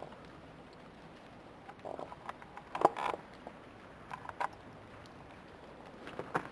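Ice crunching and ticking: a few scattered short taps and crunches, some in close pairs, over a faint background hiss.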